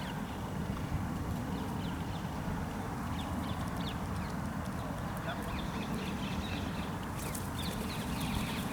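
Outdoor park ambience: a steady low rumble with faint, short chirps from small birds scattered throughout. A brief crackling rustle comes about seven seconds in.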